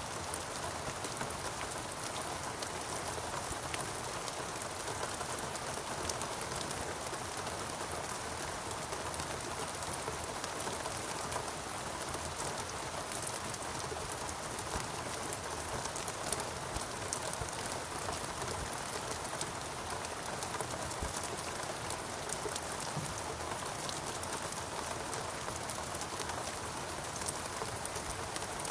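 Steady rain falling: an even hiss of countless drops striking, with no change in intensity.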